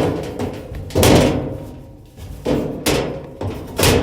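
Several loud metallic clanks and knocks, roughly a second apart, each with a short ringing tail: the dryer's sheet-metal panel being worked loose and knocked about.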